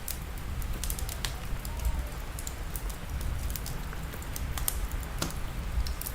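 Wood fire crackling with irregular sharp pops, over a steady hiss of rain and a low rumble.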